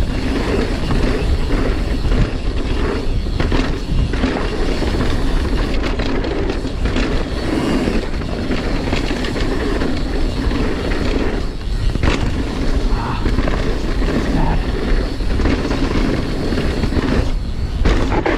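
Mountain bike rolling fast down a dirt trail: continuous loud wind rush on the microphone mixed with tyre noise and the rattle of chain and frame over rough ground.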